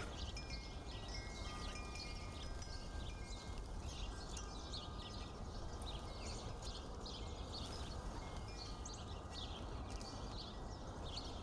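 Faint outdoor ambience of small birds chirping rapidly and continuously, with wind chimes ringing a few sustained notes near the start and again later, over a low steady rumble.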